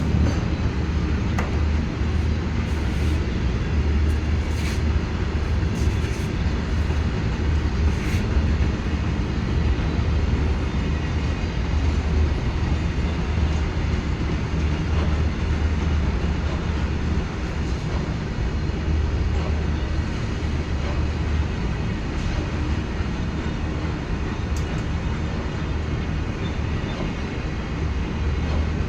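A train running steadily: a continuous low rumble with a few sharp clicks, most of them in the first eight seconds or so.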